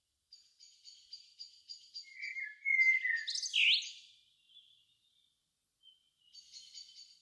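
Songbirds singing at dusk. One bird gives rapid runs of short high notes, about four a second. Around the middle, a louder song phrase of sweeping, slurred notes comes in, then a pause, and the quick high notes start again near the end.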